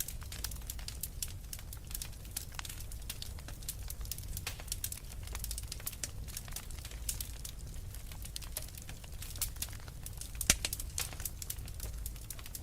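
Wood fire crackling as logs burn: a dense run of small irregular pops and snaps over a low steady rumble of flame, with one sharper, louder pop about ten and a half seconds in.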